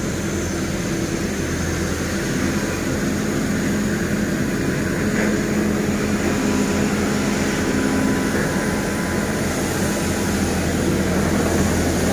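Marine diesel engine running steadily, a low even drone.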